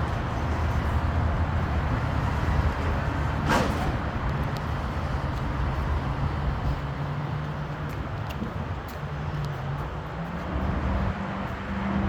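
Garbage truck engine running, its note shifting and rising slightly near the end, with a sharp clank about three and a half seconds in.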